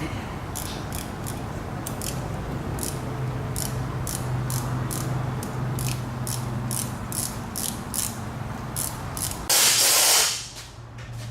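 Hand ratchet wrench clicking in a quick, uneven run of about two or three clicks a second over a steady low hum. About nine and a half seconds in comes a short, loud hiss of air.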